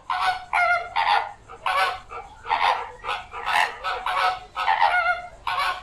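Flamingo calls: a series of about a dozen loud honks, roughly two a second.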